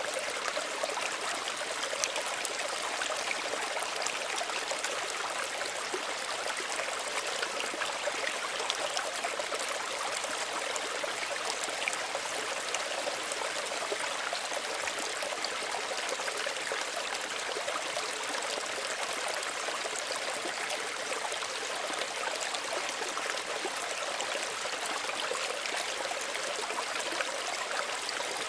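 Small stream running steadily over rocks, a continuous gentle splashing and trickling of water.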